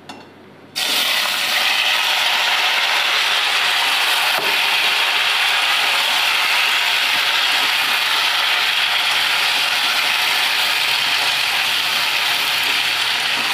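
Fried vegetable pieces (pumpkin, potato, ridge gourd, snake gourd) dropped into hot mustard oil in a kadai, sizzling loudly and steadily. It starts suddenly about a second in.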